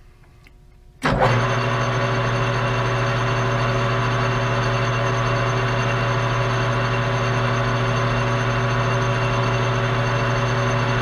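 Metal lathe switched on about a second in, its motor and gearing then running steadily with a strong hum and a high whine, set up to drill a 1 inch aluminium bar; it is running a little fast.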